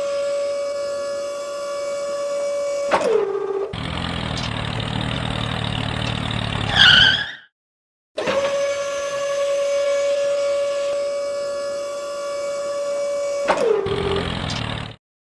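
A small motor whining at a steady pitch, then dropping in pitch as it slows, followed by a few seconds of rumbling noise that ends in a brief warbling squeal. The same sequence plays twice with a short silent break between.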